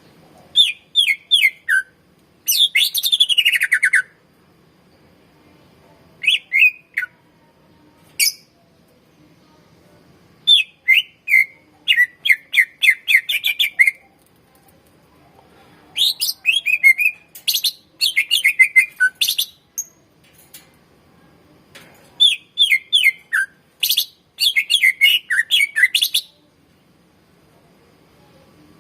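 Greater green leafbird (cucak ijo) singing in repeated bursts: fast runs of high, chattering notes with falling slurs, a new phrase every second or two after a short pause.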